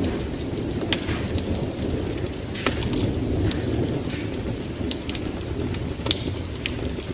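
Wood fire burning in a fireplace: a steady low rush of flame with sharp crackles and pops scattered throughout, a few of them louder.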